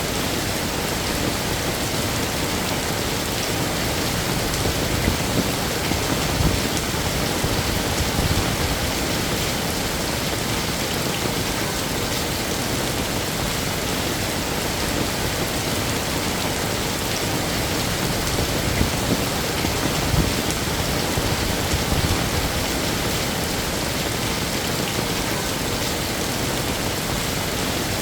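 Heavy rain falling steadily, a dense even hiss of drops on hard surfaces, with a few brief louder swells.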